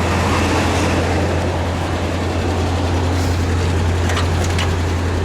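The 1982 Chevy C30's 5.7-litre small-block V8 running steadily as the truck drives, heard from inside the cab as a deep, even drone, with a few light clicks about three to four and a half seconds in.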